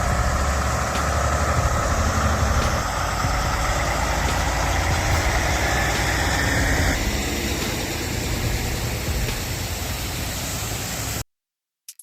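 Heavy truck engine running steadily with a low rumble, cutting off suddenly about eleven seconds in.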